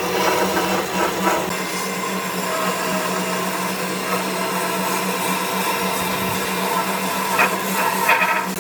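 An electric power tool running steadily, with a constant motor hum under a rough, noisy working sound.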